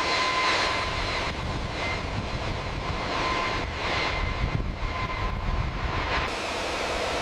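Jet aircraft engine running: a steady rushing noise with a high, thin whine over it, changing character abruptly a couple of times.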